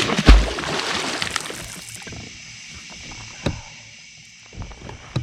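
A large blue catfish splashes into the water beside a kayak as it is released. There is a sudden splash with a heavy thump, then sloshing water fading over about two seconds. A single knock follows about three and a half seconds in.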